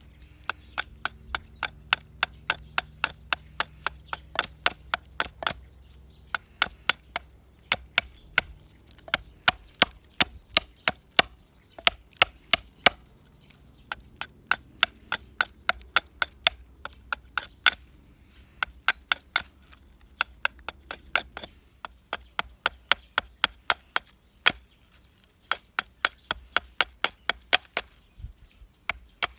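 Repeated chopping into dead pine wood with a hand tool, a steady run of sharp strikes at about two to three a second, working out resin-soaked fatwood.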